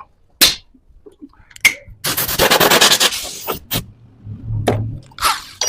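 Workshop handling of wood: several sharp knocks and clicks, with a rasping scrape of about a second, made of rapid strokes, about two seconds in.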